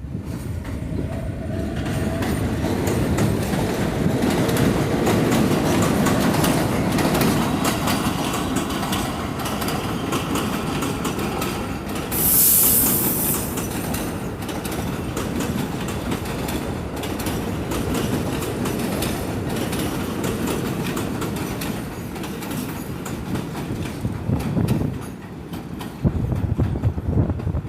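An R46 subway train accelerating away from the station: a rising whine in the first seconds, then a loud steady rumble with wheels clacking over rail joints. A short high-pitched burst comes about twelve seconds in, and the sound drops off near the end as the train clears.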